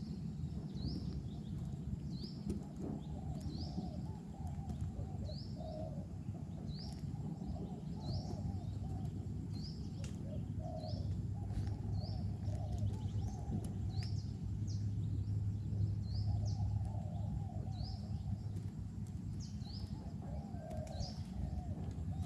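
Spotted doves cooing in low, rolling phrases. Another bird gives short, high, rising chirps about once a second throughout.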